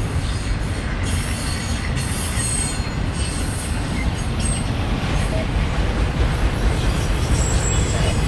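CSX freight train's cars rolling past: a steady heavy rumble of wheels on rail, with brief high wheel squeals now and then.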